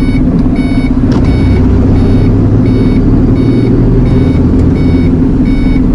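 Truck diesel engine running steadily, heard from inside the cab, with a short electronic beep repeating about one and a half times a second.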